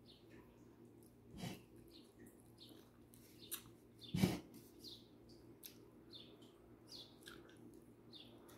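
Faint, scattered high chirps of small birds over a low steady hum, with two louder short noises, one about a second and a half in and a bigger one about four seconds in.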